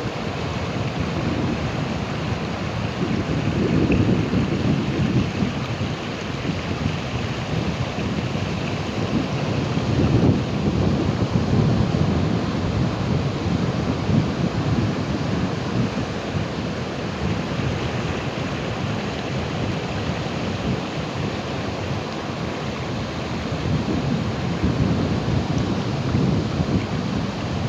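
Ocean waves rolling in and breaking, a steady rushing surf that swells with a deeper rumble three times: about four seconds in, around ten seconds, and near the end.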